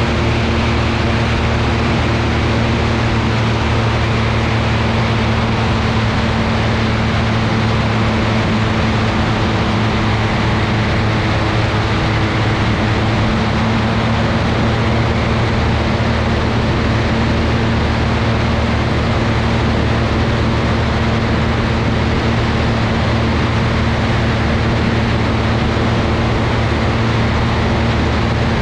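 Velocity V-Twin's two piston engines droning steadily with a constant rush of air, the engine pitch holding almost unchanged throughout.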